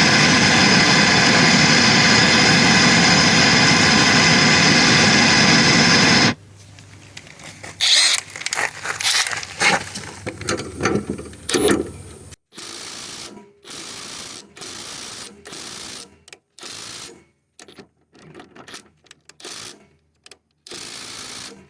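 Lawn mower's small petrol engine running steadily, then shut off abruptly about six seconds in. Some clattering knocks follow, and then a cordless power tool runs in repeated short bursts about a second long with short gaps between.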